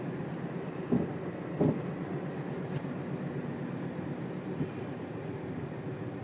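Steady road and engine noise heard from inside a moving vehicle, a low even rumble, with two short louder knocks about a second in.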